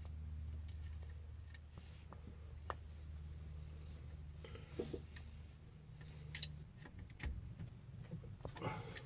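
Faint clicks and light taps of hand tools and hardware as the negative cable is fastened onto a boat alternator, over a low steady hum that stops about two-thirds of the way through.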